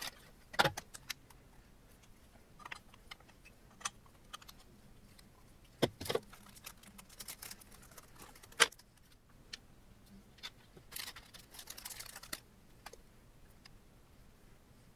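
Small metal hardware and tools being handled during assembly of an Ender 3 Pro 3D printer kit: scattered, irregular clicks, clinks and knocks. There is a short rustle about three-quarters of the way through.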